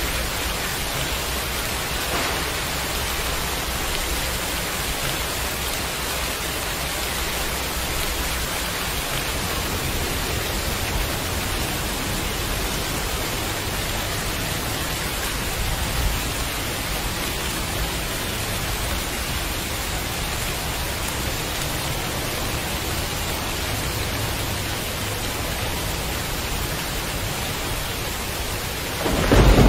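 Heavy rain falling steadily, an even hiss. Just before the end a loud rumble of thunder breaks in.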